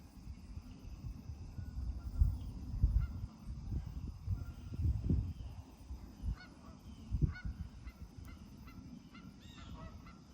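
Geese honking: short calls, several in quick succession in the second half and a cluster near the end, over a steady low rumble.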